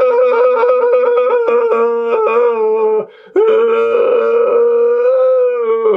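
A man's voice in a vocal exercise, holding a long, steady howl-like note twice. Each note lasts about three seconds, with a short break for breath just after three seconds in. The tone is placed out to the side of the voice so that it resonates in the cheeks and jowls.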